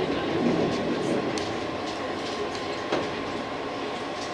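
JR 185 series electric train running along the track, heard from behind the driver's cab: a steady running noise with scattered clicks from the wheels, and one sharper click about three seconds in.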